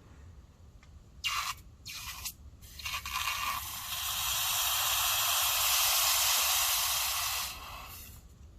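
A hissing spray: two short bursts, then one long steady spray lasting about four seconds that cuts off near the end.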